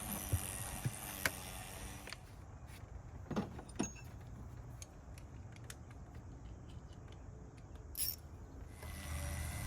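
Scattered clicks and light knocks of the air cleaner housing being handled and fitted back onto a 2006 Jeep Liberty's engine, with a few sharper knocks about three and a half seconds in and near the end.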